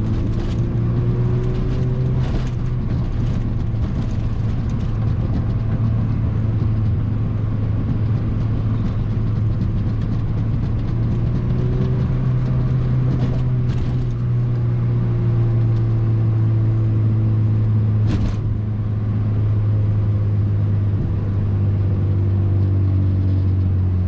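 Mazda MX-5 NC's 2.0-litre four-cylinder engine running through its modified exhaust while cruising, a steady low drone whose pitch eases gently up and down with the throttle. A few faint clicks are heard along the way.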